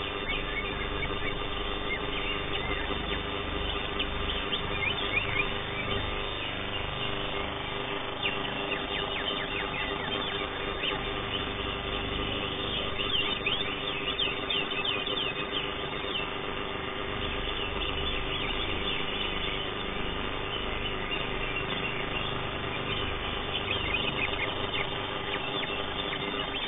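Greater green leafbird (cucak hijau) singing: quick runs of high chirping notes in bursts, the fullest about halfway through, over a steady background hum.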